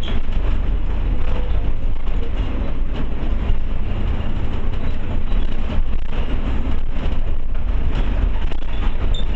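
Steady low engine and road rumble heard from inside a moving Scania OmniCity double-decker bus, with frequent small rattles and clicks from the body and fittings.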